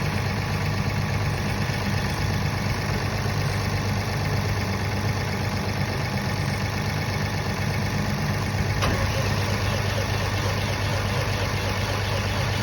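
Caterpillar diesel generator engine running at a steady idle on a cold start in about −22 °C, with an even low hum.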